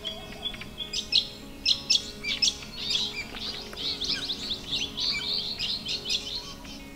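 Birds chirping and calling in a busy chorus of short, quick chirps, thickest from about a second in.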